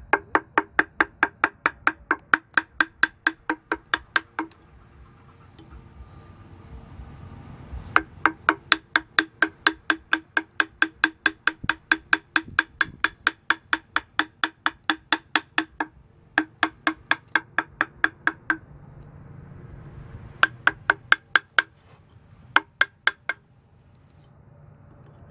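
Rapid, evenly spaced strikes on a hard object that rings, about four or five a second. They come in several runs: a long one at the start, a longer one from about a third of the way in, then shorter bursts with pauses between.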